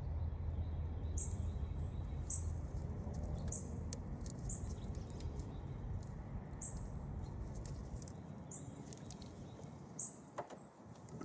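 A small bird chirping a short high note about once a second over a low steady rumble, with a sharp click about ten seconds in.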